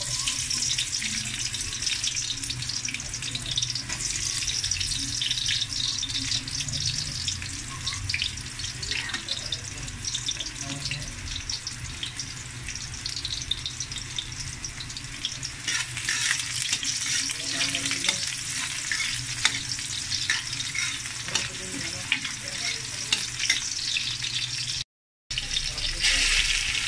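Chopped garlic and onion sizzling and crackling in hot oil in a wok. Near the end, after a brief break, the sizzling grows a little louder as marinated pork ribs go into the pan.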